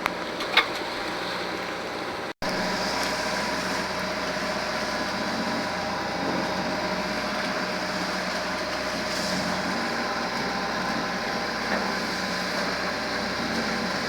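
Steady drone of a boat's engine running, with a couple of clicks in the first second and a brief break about two seconds in.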